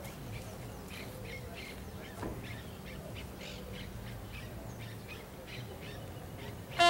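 Scattered short bird calls over a faint low hum of open-air background. Right at the end a trumpet call starts loudly on a held note.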